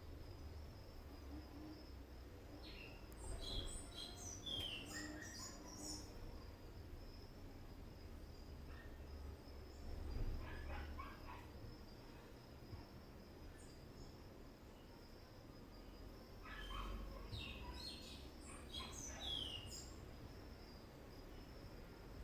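Faint birds chirping in two short flurries of quick up-and-down calls, one a few seconds in and another a few seconds from the end, over a steady low hum and a thin, steady high tone. A short patch of soft clicking comes in the middle.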